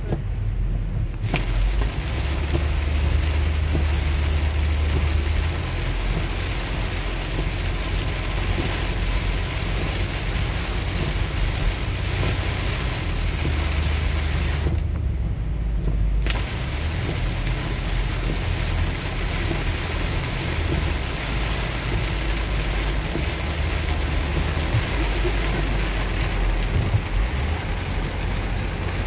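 Heavy rain on the roof and windshield of a minivan driving on a flooded highway, heard from inside the cabin, with steady low road rumble and tyres through standing water. The rain hiss cuts out twice for about a second and a half, near the start and about halfway through, as the van passes under overpasses.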